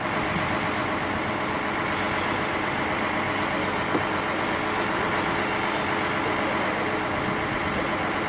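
A truck engine running steadily at an even pitch, cutting in and out abruptly.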